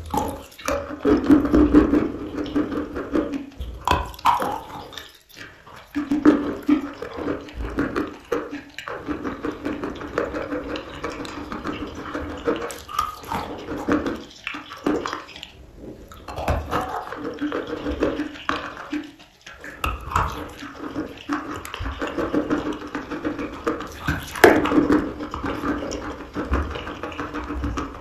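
Close-miked chewing of chalk: dense crackly crunches and wet, pasty mouth sounds as dry and softened chalk is bitten and mashed.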